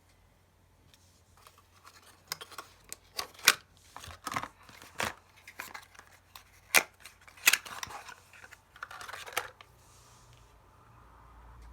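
A perfume bottle and its packaging handled up close: irregular sharp clicks and taps mixed with short rustles, which die away about three quarters of the way through.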